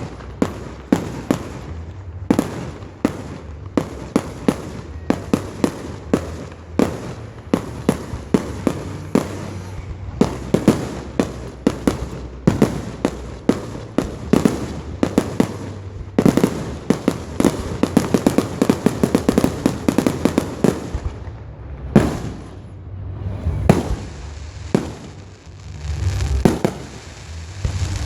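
Fireworks going off in quick succession, sharp bangs and cracks a few times a second. They thicken into a rapid barrage in the middle, then thin out to a few scattered bangs near the end, over a steady low rumble.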